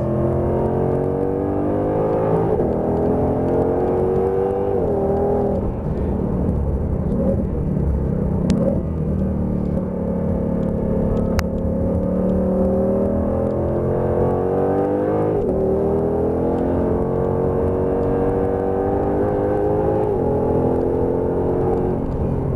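Ford Shelby GT500's V8 heard from inside the cabin, pulling hard on a race track: the engine note climbs in pitch and drops back at each upshift, in two bursts of acceleration with a steadier, lower stretch between them. Tyre and road rumble run underneath.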